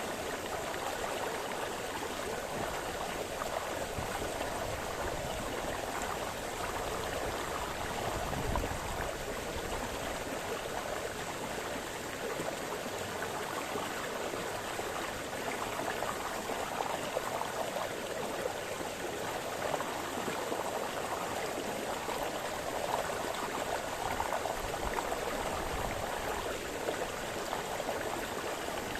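A small forest brook splashing and burbling over stones, a steady rush of running water with small shifting gurgles.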